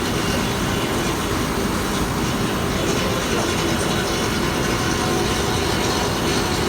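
Steady, loud machinery noise aboard a ship: a constant rumble with a faint steady hum underneath and no breaks.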